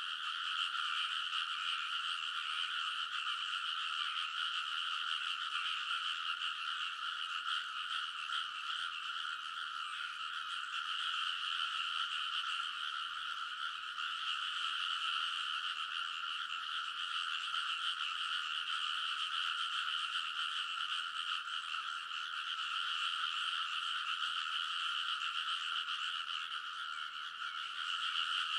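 A dense chorus of many frogs in rice paddies calling all at once. The overlapping croaks merge into a steady, unbroken din with no pauses.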